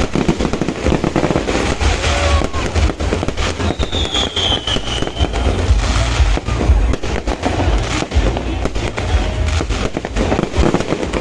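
Fireworks display: a dense, continuous barrage of bangs and crackles over deep booms, with a high whistling tone about four seconds in.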